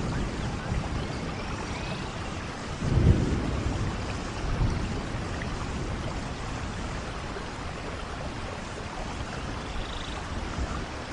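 Soft rain falling steadily, with a brief low rumble of thunder about three seconds in.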